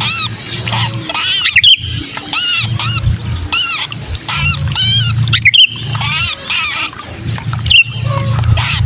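Sooty-headed bulbul distress calls, the 'kejepit' cry of a caught or pinched bird used as a lure: quick runs of harsh, arching chirps, broken by a sharper rising squeal three times. A low hum swells and fades beneath them.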